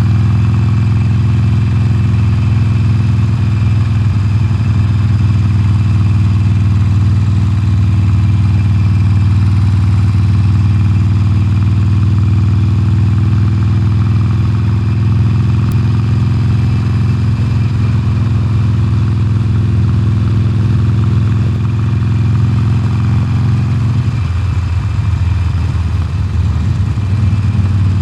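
Harley-Davidson Sportster Forty-Eight's air-cooled 1200 cc V-twin through its stock exhaust, running at a steady engine speed. About 24 seconds in, the even note turns rougher and less steady.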